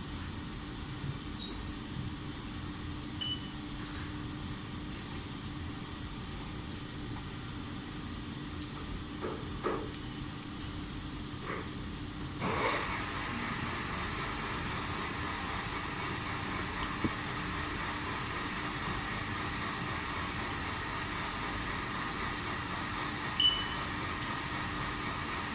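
Steady machine hum with a constant low tone and a hiss over it, broken by a few light clicks and knocks and a short rasping noise about halfway through.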